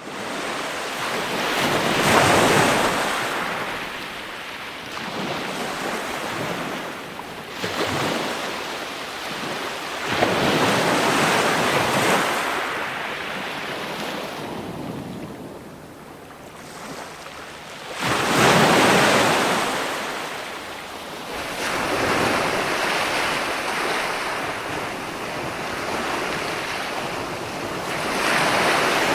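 Ocean waves breaking and washing in, a broad rushing surge swelling and ebbing about every eight seconds, with wind.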